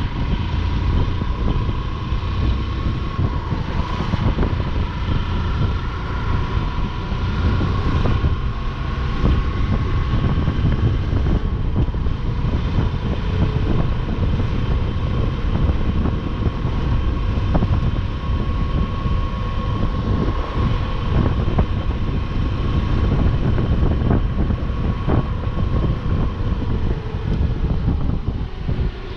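Motorcycle riding at a steady pace, its engine running evenly under heavy wind rumble on the microphone.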